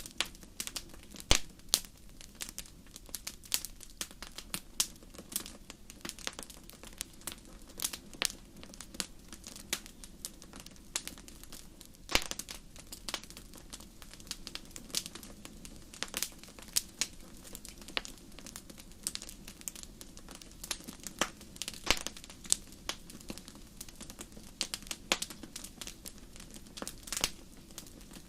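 Wood fire crackling in a fireplace: irregular sharp pops and snaps, a few louder than the rest, over a low steady hiss of burning.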